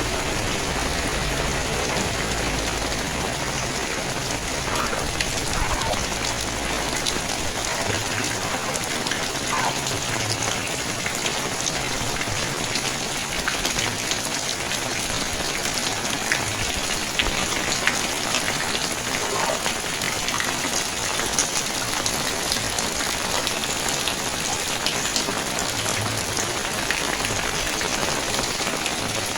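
Steady rain falling, with many close drops ticking sharply against the constant hiss.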